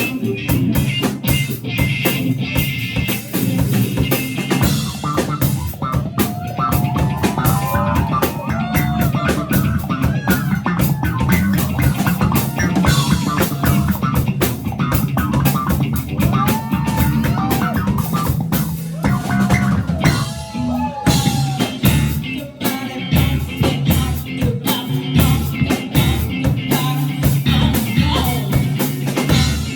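A live rock band playing with drum kit, bass and guitar, in an instrumental passage. From about 6 to 21 seconds in, a lead line of bending, sliding notes plays over the rhythm.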